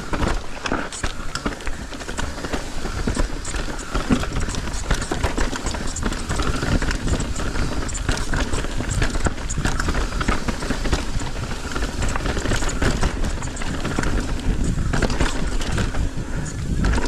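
Mountain bike descending a rough, rocky trail: tyres rolling over dirt and rocks, with constant rattling and knocks from the bike and a low rumble throughout.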